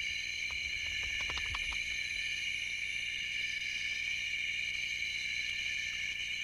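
Steady chorus of night insects such as crickets, a shrill trilling held on several pitches at once. About a second in comes a brief flurry of soft clicks with a low flutter.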